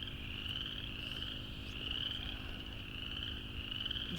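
A chorus of many frogs calling together: a continuous high-pitched chorus that swells and fades slightly.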